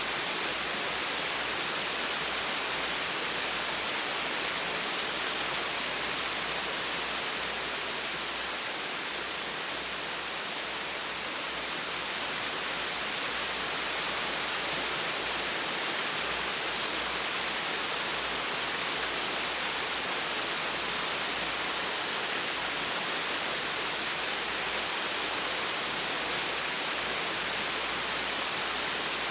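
Small waterfall splashing: a steady, even rush of falling water, with a slight dip in level about ten seconds in.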